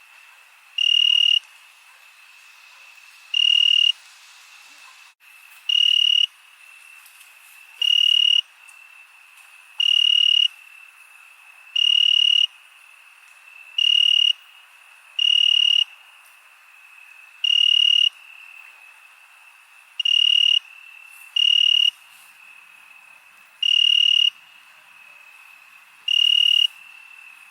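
Crickets chirping at night: one loud cricket gives a half-second, high-pitched trill roughly every two seconds over a steady background trill from others.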